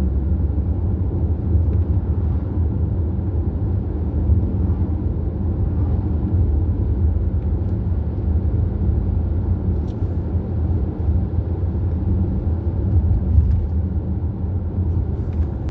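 Motorcycle cruising steadily on an open highway: an even, low engine and road rumble with no change in speed.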